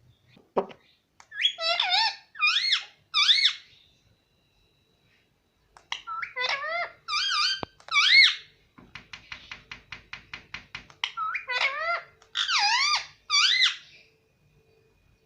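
Pet parrot giving high, squeaky, warbling calls in three runs, the pitch swooping up and down within each note. Between the second and third runs it makes a quick clicking rattle.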